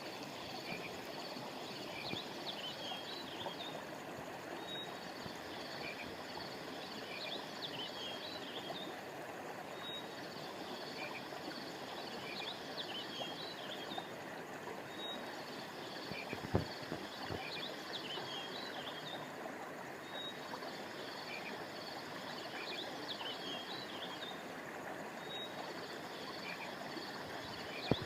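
A river or stream flowing steadily, with high bird chirps over it in a short pattern that repeats about every five seconds, as a loop does. A single brief knock about halfway through.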